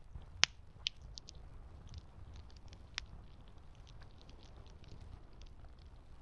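Campfire crackling: a steady low rumble of burning wood with scattered small crackles and a few sharp pops, the loudest about half a second in and another about three seconds in.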